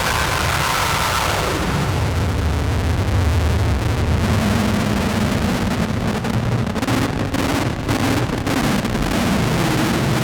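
Novation Circuit groovebox playing a noisy experimental drone patch from the Howl preset pack: a dense wash of noise over a deep rumble. A higher tone fades out in the first second or two, a low droning tone comes in about four seconds in, and the upper noise chops on and off toward the end.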